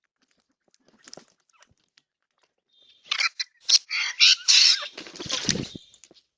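A bird squawks harshly, several loud rasping calls in quick succession starting about three seconds in, with a low rumble under the last calls, after a few faint clicks.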